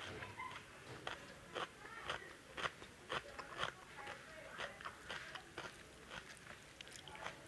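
Close-miked chewing of rice and kofta curry: irregular wet mouth clicks and smacks, a few each second.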